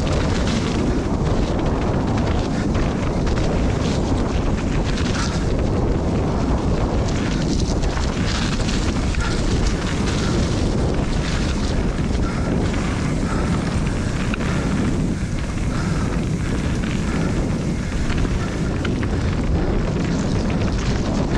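Steady wind rush buffeting the microphone of a mountain bike riding fast down a muddy trail, along with tyre and ride noise.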